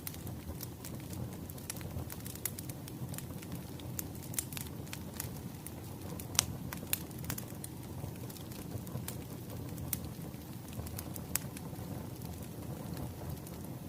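Wood fire crackling: a steady low rumble of burning logs with irregular sharp pops and snaps, one louder pop about halfway through.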